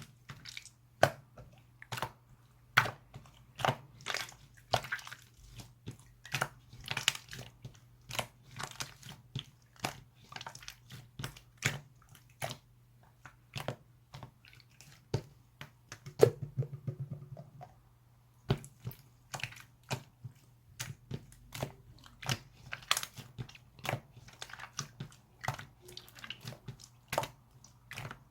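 Slime being squeezed, folded and pressed by hand, giving irregular sharp clicks and pops from trapped air, roughly one or two a second, with a denser crackly run about two thirds of the way in. A steady low hum lies underneath.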